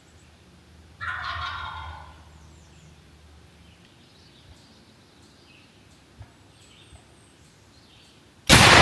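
An eastern wild turkey gobbler gobbles once, about a second long, about a second in. Near the end a single very loud shotgun blast goes off and rings out.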